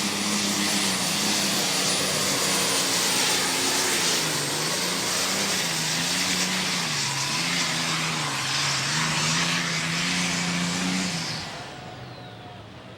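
John Deere diesel super stock pulling tractor running flat out under load on a pull, with a high turbocharger whine over the engine. The engine note sags and recovers several times as the sled bogs it down. About eleven seconds in the power is cut, and the engine and turbo wind down.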